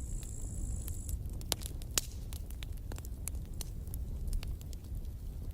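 Campfire burning: a steady low rumble with scattered crackles and pops of the burning wood, one sharper pop about two seconds in. A thin high hiss fades out about a second in.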